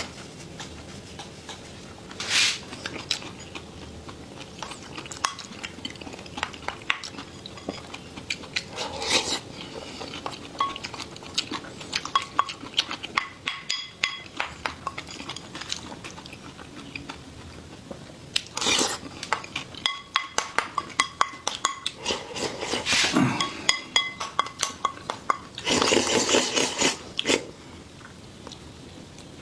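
Chopsticks and utensils clicking and clinking against bowls and plates during a meal: many short clicks and brief ringing clinks, with a few louder rustling bursts at intervals.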